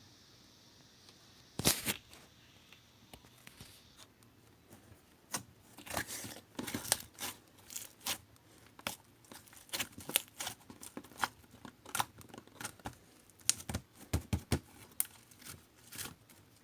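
Slime being mixed by hand, giving irregular crackling pops and clicks, some in quick runs.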